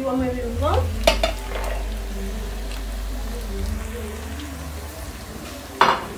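Chopped tomatoes, carrots and green peppers tipped into a metal pot and frying with a sizzle, with a sharp clink against the pot about a second in and a louder knock near the end.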